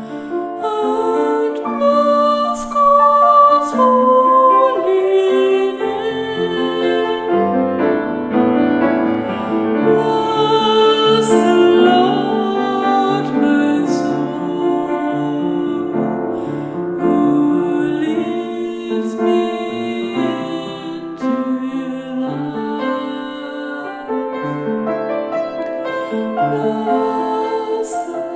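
A slow, gentle Taizé chant sung over a sustained keyboard accompaniment.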